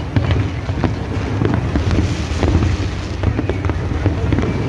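Aerial fireworks going off in quick succession: many sharp cracks and pops over a steady low rumble.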